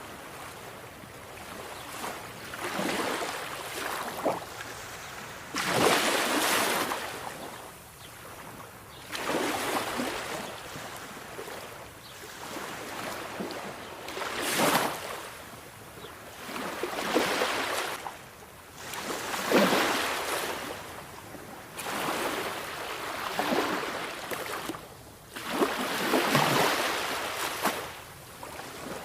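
Sea waves breaking on the shore, one wash of surf swelling and falling away every few seconds.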